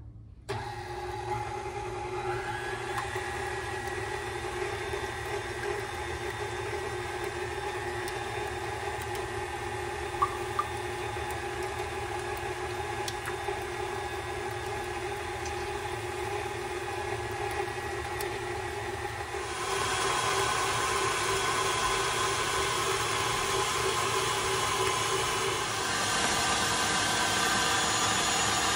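KitchenAid tilt-head stand mixer running with its wire whisk, whipping egg whites into meringue: a steady motor hum with the whisk beating in the bowl. It gets louder about two-thirds of the way in and changes again near the end.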